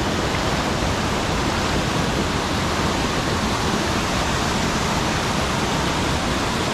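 Steady rush of mountain-stream water pouring over a check dam, an even wash of noise with no breaks.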